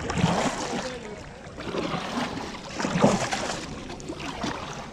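Water sloshing and splashing around a kayak in several uneven surges.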